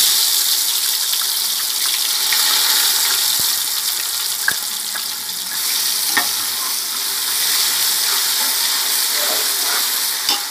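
Ginger-garlic paste sizzling steadily in hot mustard oil in a metal pot as it is stirred with a ladle, with a few sharp clicks of the ladle against the pot.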